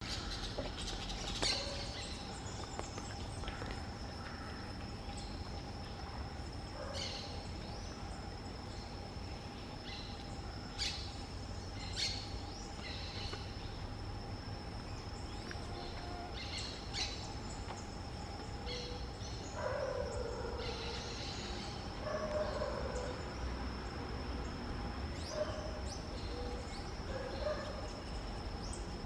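Birds calling: short, sharp high chirps scattered throughout, with lower, rougher calls coming in from about twenty seconds on, over a steady high-pitched whine.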